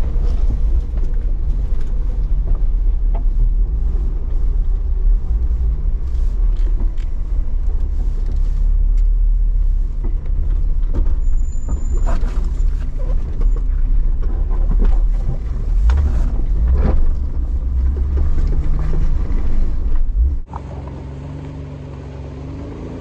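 Jeep driving through deep snow: a loud, heavy rumble with many knocks and jolts over the engine running underneath. Near the end the rumble cuts off suddenly, leaving a quieter, steady engine note.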